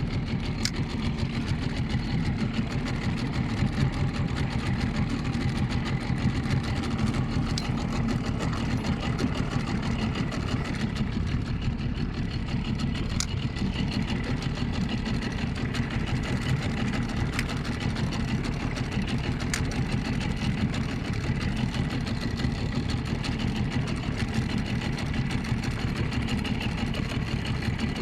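Small outboard motor running steadily at low revs, an even, unchanging engine drone.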